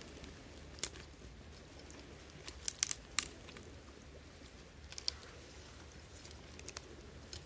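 Scattered sharp snaps and clicks of dry wood, some in quick clusters, over a faint steady low rumble.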